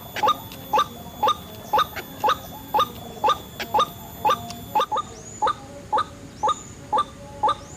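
White-breasted waterhen calling: a short pitched note repeated about twice a second in a steady, even rhythm.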